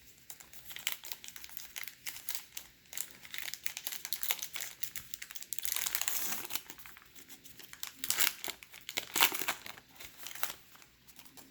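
Baseball card pack wrapper being torn open and crinkled, crackling irregularly, loudest around six and nine seconds in.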